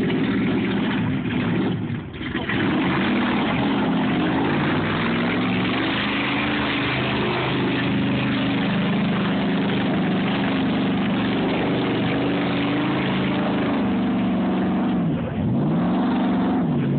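Car engine held at high revs as the vehicle is driven hard; near the end the revs drop and climb back twice.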